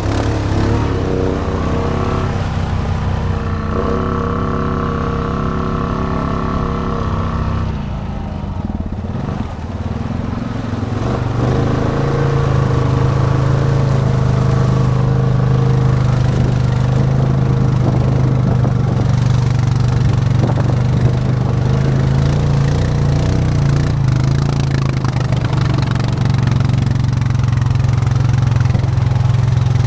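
Honda Rubicon ATV's single-cylinder engine running under load on an off-road trail. Its pitch shifts in the first several seconds, dips briefly, then holds a steady, strong drone for the rest.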